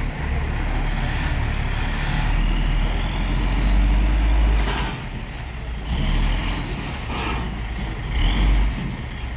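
Heavy diesel engine running under load, a deep rumble that is loudest for the first few seconds, eases off about five seconds in, then swells briefly twice.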